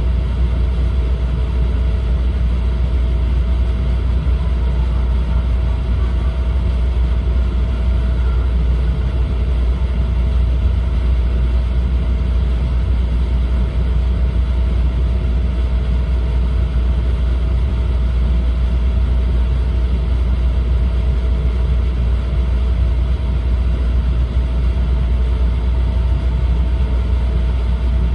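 Cabin noise of an E4 series Shinkansen running at speed: a steady, even low rumble with a faint steady tone above it.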